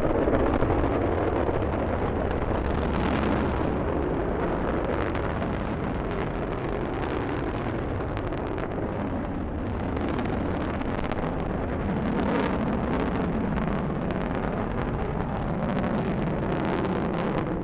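Delta rocket's engine noise during liftoff and climb-out: a steady deep rumble with sharp crackling throughout.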